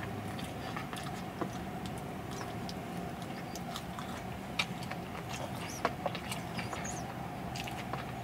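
Close-miked chewing of a saucy sandwich: soft wet mouth clicks and smacks, scattered and irregular, over a steady low hum.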